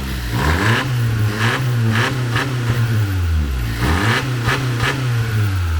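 A 2017 Honda Civic Touring's 1.5-litre turbocharged four-cylinder engine revved with its factory stock blow-off valve, in repeated throttle blips whose pitch rises and falls several times.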